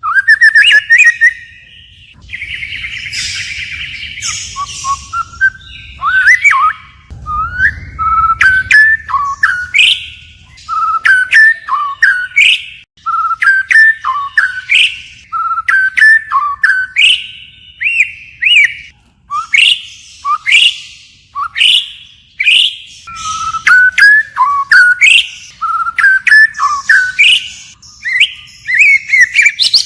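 White-rumped shama singing: loud, varied whistled phrases with sliding notes, one after another, changing phrase continually. A harsher, raspy passage comes a few seconds in.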